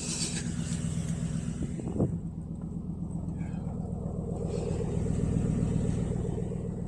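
Chevrolet Tahoe's V8 engine idling steadily, with a sharp knock about two seconds in.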